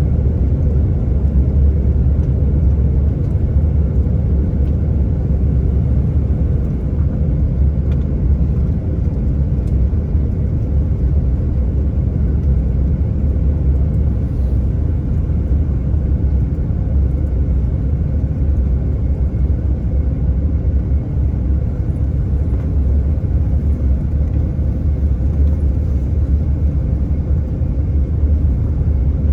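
Steady airliner cabin rumble from the engines and airflow, heard from inside the cabin, with a few faint steady tones above the low drone.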